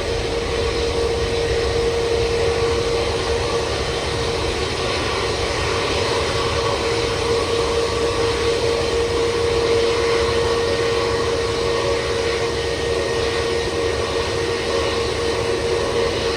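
Jet airliner engines running steadily: an even rush of noise with a steady mid-pitched hum through it.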